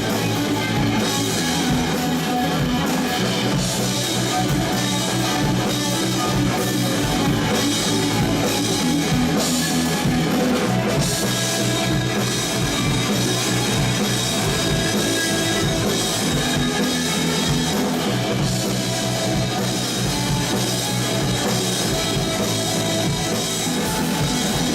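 Live rock band playing loudly, with distorted electric guitars, bass and a pounding drum kit, and no vocals.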